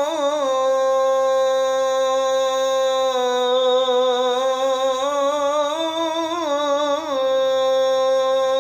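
A man's voice calling the adhan (Muslim call to prayer), holding one long melismatic note on the phrase 'ashhadu an la ilaha illallah'. The pitch stays level and wavers in ornamental turns just after the start and again around six and seven seconds in.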